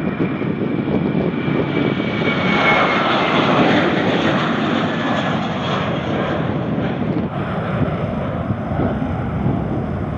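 Boeing P-8A Poseidon's CFM56 turbofan engines as the jet flies past: a steady jet rumble with a high whine that falls slightly in pitch over the first few seconds, loudest around three to four seconds in.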